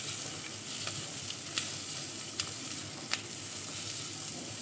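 Diced onion and green capsicum sizzling in a little hot oil in an aluminium kadhai, stirred with a spatula: a steady frying hiss with about four short sharp ticks spread through it.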